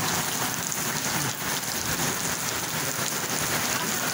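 Rain falling steadily onto a wet cobblestone street, an even, unbroken hiss.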